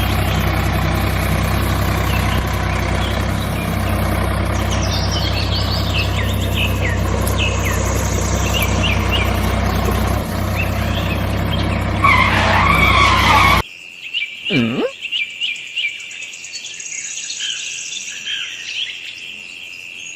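A steady machine hum with birds chirping over it, growing louder and rougher just before it cuts off abruptly about two-thirds of the way through. After that, birds chirp over a steady high insect trill.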